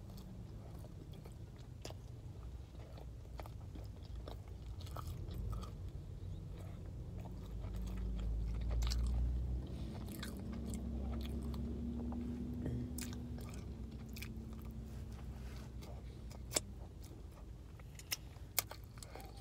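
Close-miked chewing of a mouthful of McDonald's cheeseburger, with wet mouth clicks and smacks. A few sharper clicks come near the end.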